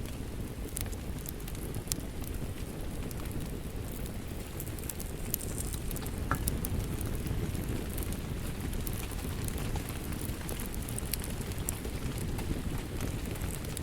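Steady rain with the crackle of a wood fire: a low, even rumble of rainfall under scattered sharp pops and snaps.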